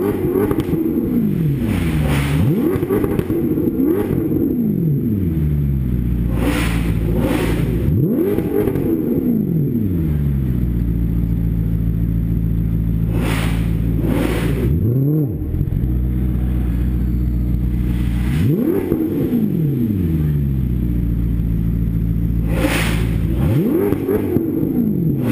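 Maserati GranTurismo MC Sportline and Ferrari 599 GTB engines revved hard again and again in quick blips, each climbing sharply in pitch and falling back. Between the clusters of revs they settle to a steady idle.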